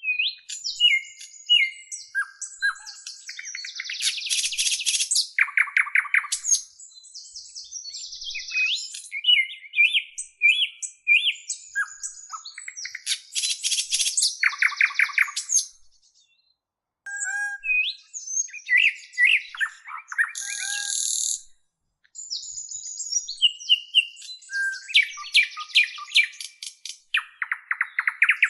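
Small songbirds chirping and singing: a busy run of quick chirps, rapid trills and buzzy notes, cutting out briefly twice.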